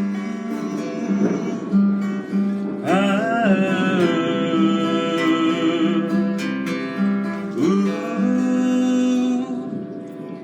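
Acoustic guitar playing with a voice singing along in long, wavering held notes; the piece winds down near the end.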